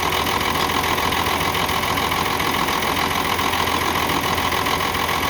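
Nissan PF6 six-cylinder diesel engine in a UD truck idling steadily. It is misfiring on one cylinder because the number 5 injection-pump plunger is not delivering diesel.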